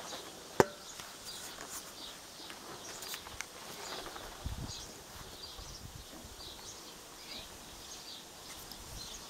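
Faint outdoor background with small birds chirping in short high notes throughout. A single sharp click comes about half a second in.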